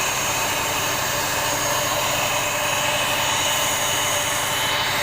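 CNC router spindle running steadily as it carves a door panel in wood or MDF, a constant machine noise with a steady high whine.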